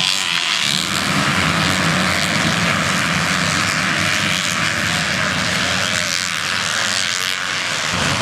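Motocross bike engines running at high revs on the track, a steady loud buzz.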